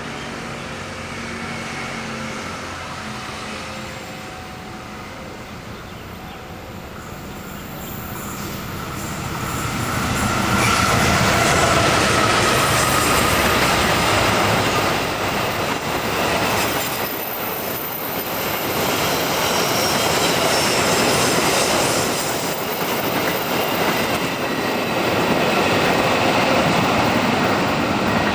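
Diesel-hauled passenger train approaching and passing close by. First a steady locomotive engine hum, then from about ten seconds in a loud rolling rush of coaches on the rails, with regular wheel clacks and a high wheel squeal over it.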